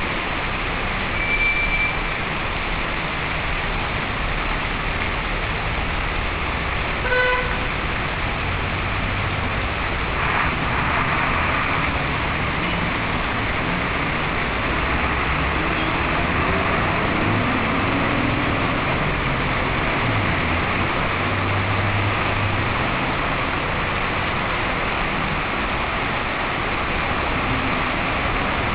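Steady traffic noise on a rain-soaked, flooded street: engines running and a constant wash of rain and tyres in water. A short car horn toot comes about a second in, and another brief horn beep about seven seconds in.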